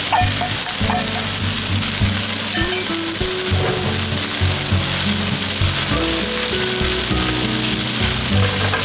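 Stir-fry sizzling in hot oil in a pan, a continuous frying hiss, with low background music underneath.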